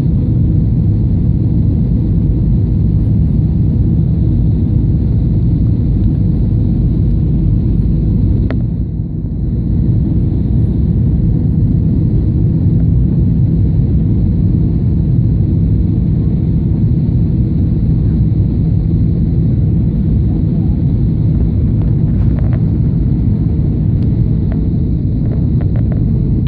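Steady low rumble of a jet airliner's engines and rushing air, heard from inside the passenger cabin during the approach to landing. It eases briefly about nine seconds in.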